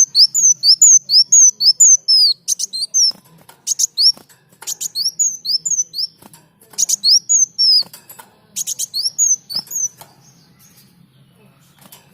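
Kolibri daun songbird singing: repeated bursts of high, quick slurred chirps, about three notes a second, each burst opening with sharp clicks and separated by short pauses, with a longer pause near the end.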